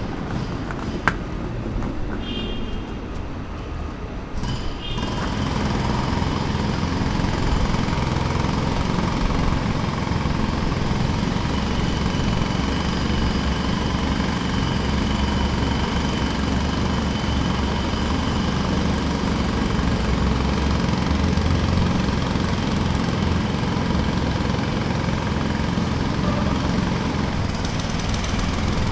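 Jackhammer breaking pavement, starting about five seconds in and then hammering steadily at a rapid rate.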